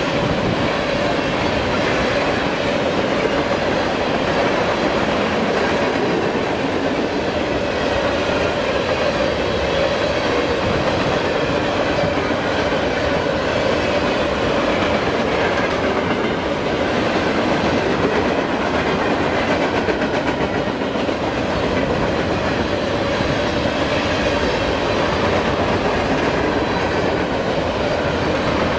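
A train's cars rolling past, with steady, continuous noise of steel wheels running on the rails.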